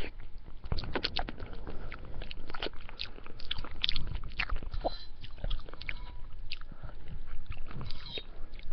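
Close-miked chewing of spaghetti: wet mouth smacks and irregular small clicks as a mouthful is eaten.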